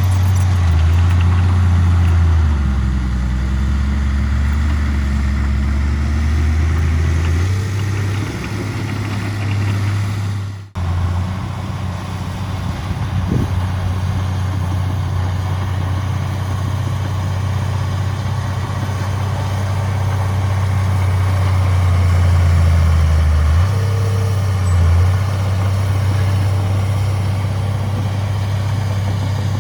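Heavy diesel engines of earthmoving machinery running steadily with a deep hum, the pitch shifting slightly a few seconds in. The sound cuts out for an instant about a third of the way through.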